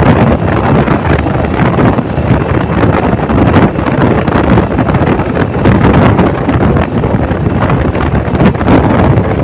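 Loud wind buffeting the microphone of a camera on the move, with the rumble of the vehicle carrying it underneath.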